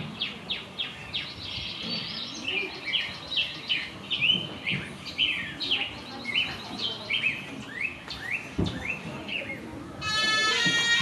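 Birds chirping: a quick series of short, sweeping high chirps, two or three a second. About a second before the end, music comes in with held, slightly wavering instrumental tones.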